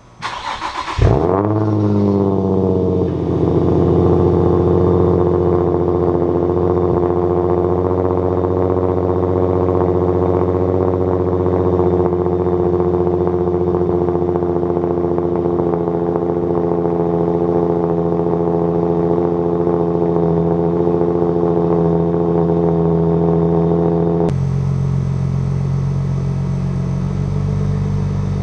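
Nismo 350Z's 3.5-litre V6 cold-starting through a Tomei cat-back exhaust. The engine catches under half a second in, flares in revs and settles within a couple of seconds into a steady fast cold idle. Near the end the idle note drops lower.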